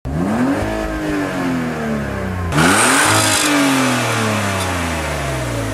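Car engine revved twice, heard through the exhaust: each rev climbs quickly and then winds down slowly. The second rev, about two and a half seconds in, is the sharper one and carries a burst of hiss at its peak. The sound cuts off abruptly at the end.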